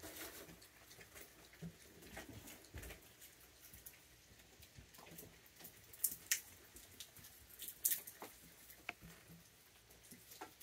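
Raccoons feeding on peanuts and treats: scattered small clicks and taps of chewing and handling food, with a few sharper clicks past the middle.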